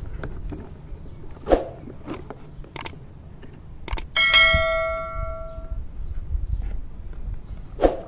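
Light clicks and knocks from handling, with one metallic ring like a small bell about four seconds in that dies away over about a second and a half.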